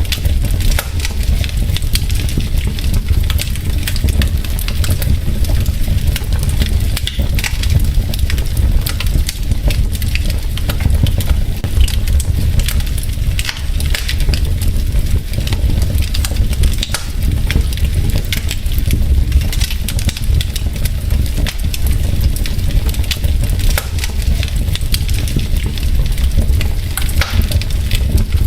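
Wood logs burning in a fireplace, crackling with many quick irregular pops and snaps over a steady low rumble of the fire.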